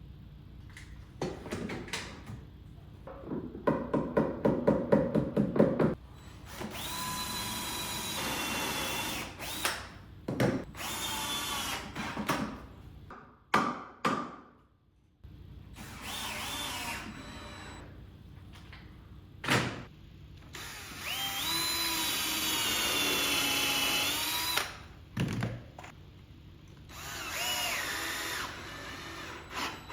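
Power drill/driver running in several short bursts, driving screws. Its whine shifts in pitch as it runs, and one early stretch has rapid clicking. Short knocks fall between the bursts.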